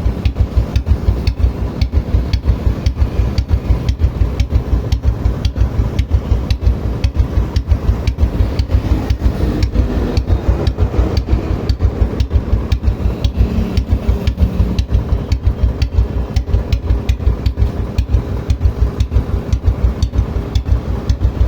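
Royal Enfield Bullet single-cylinder engine idling with a steady thump, about five beats a second, while it runs through a carbon cleaning done without opening the engine.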